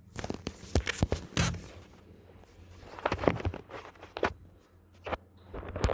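Irregular footsteps with light knocks and rustles, coming in clusters.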